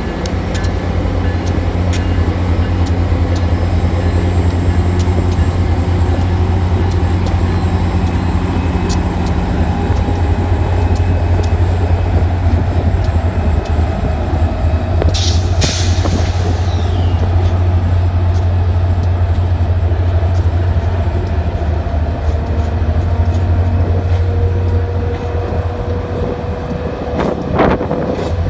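Grand Canyon Railway excursion train pulling out of the station, its diesel locomotive running with a loud, steady low drone and faint tones slowly rising in pitch. Scattered clicks from the moving train, with a brief sharp hiss about halfway through and another short sharp noise near the end.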